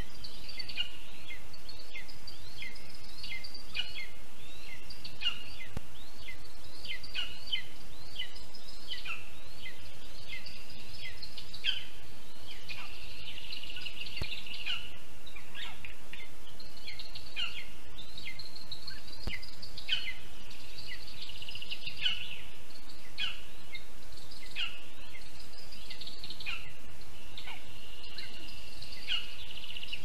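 Birds chirping throughout: many short, high notes that sweep downward, mixed with a fast trill, over a steady background hiss.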